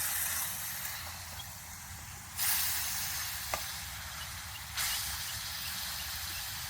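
Food sizzling in a frying pan over a campfire, a steady hiss that jumps louder about two and a half seconds in and again near five seconds, with a single sharp crack in between.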